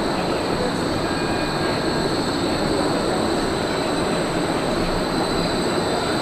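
Bombardier Flexity Swift E-class light-rail tram running, a steady rail rumble with a thin high whine.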